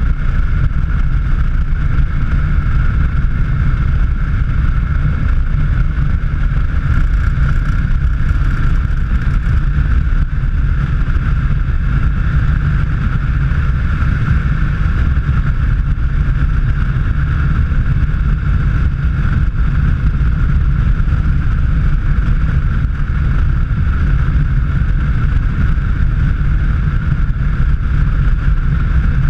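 Steady engine and road rumble of a vehicle driving at speed on a highway, holding an even level throughout.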